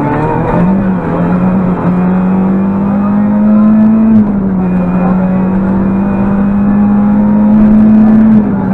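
Rally car engine heard from inside the cabin, running hard at high revs at speed on the stage. Its note holds nearly level, dipping slightly at about four seconds and again near the end.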